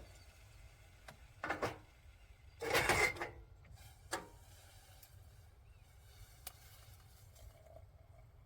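A few short scuffs and knocks of something being handled, the loudest about three seconds in.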